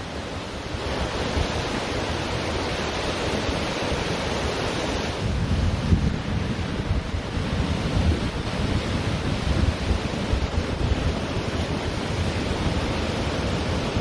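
Ocean surf washing onto a beach in a steady rush, with wind buffeting the microphone as an uneven low rumble.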